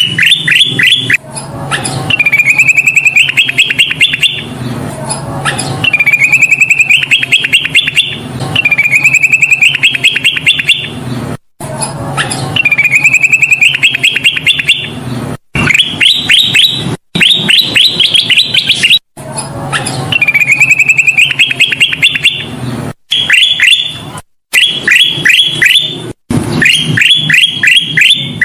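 Kutilang emas, a bulbul, singing a loud, chattering phrase of quick trilled notes, repeated over and over in a looped lure recording with short abrupt gaps between some repeats. A low steady hum runs underneath.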